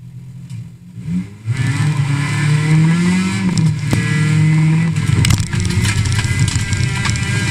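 Rally car's engine heard from inside the cabin, running quietly at first, then pulling away hard about a second and a half in and revving high on gravel. The pitch rises, dips and holds, with a few sharp knocks along the way.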